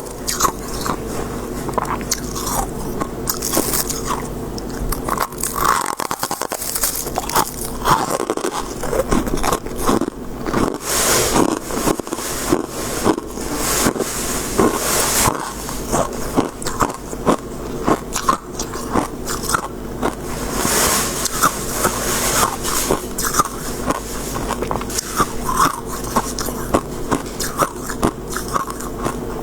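Close-up biting and chewing of crisp shaved ice or freezer frost: dense crunching throughout, with longer scraping, crushing stretches at about a third and two-thirds of the way through.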